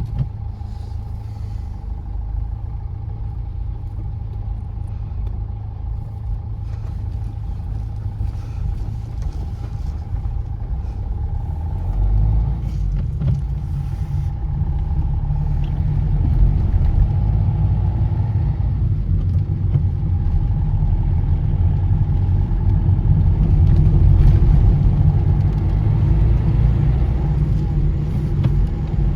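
A car driving along a road: a steady low rumble of tyres and engine, which grows louder about twelve seconds in.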